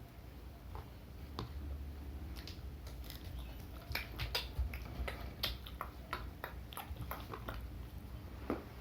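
Mouth noises of someone eating bakwan fritters and raw garlic close to the microphone: chewing with a string of crisp, sharp clicks and crunches, thickest past the middle.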